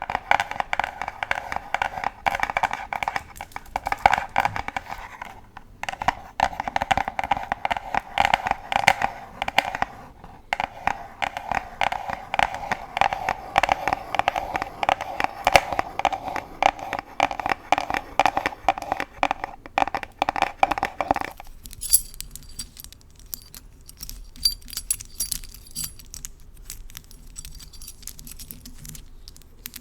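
Long acrylic nails scratching and tapping rapidly on a pink box. About twenty seconds in, this stops abruptly and gives way to a metal key being tapped and handled, with light, bright metallic clinks.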